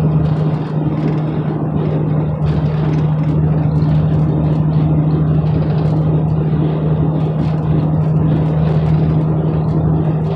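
Inside the cab of a moving truck: a steady low engine hum with road and tyre noise while driving in traffic.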